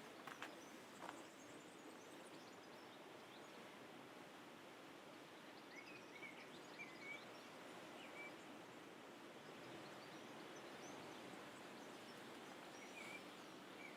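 Faint, steady outdoor background hiss, close to silence, with a few brief bird chirps about six to seven seconds in and again near the end.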